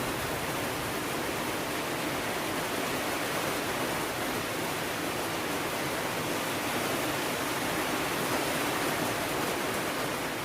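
Steady rain falling, an even hiss that holds constant with no single drops or knocks standing out.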